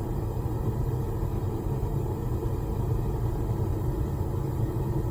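Gas forge burner running with a steady low rumble.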